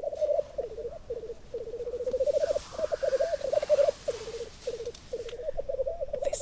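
Black grouse males at a lek, a continuous bubbling, cooing song (rookooing) that pulses rapidly and overlaps from several birds, with short breaks. A breathy hiss rises over it from about two seconds in to about five seconds in.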